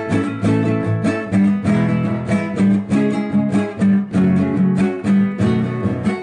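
Instrumental break in a gospel song: acoustic guitar strumming and picking with a bass line, in a steady rhythm.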